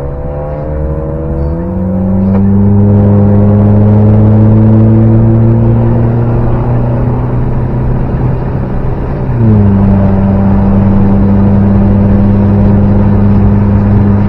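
Car engine pulling under acceleration. The revs jump up about a second and a half in, climb slowly, then drop sharply at a gear change about nine seconds in and hold steady.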